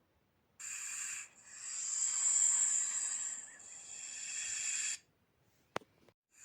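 Snake hissing: one short hiss, then a long hiss of about three and a half seconds that swells and then fades. A single sharp click follows near the end.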